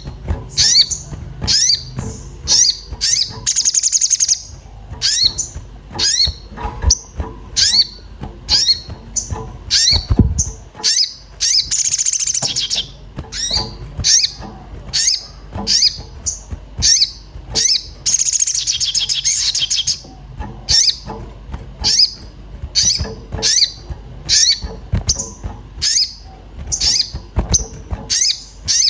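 Sogon (sogok ontong) bird calling excitedly: quick, high 'cuit cuit' chirps about two a second, broken by longer rapid trills about 4, 12 and 18 seconds in. This is the agitated 'emosi' calling kept as a lure to set other birds singing.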